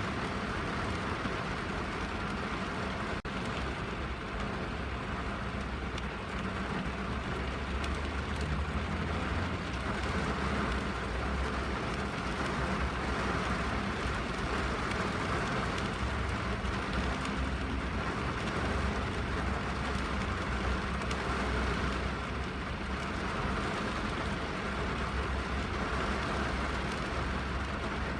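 Rain falling steadily on a car's roof and windows, heard from inside the car as a continuous patter over a deep drumming rumble, slightly heavier through the middle.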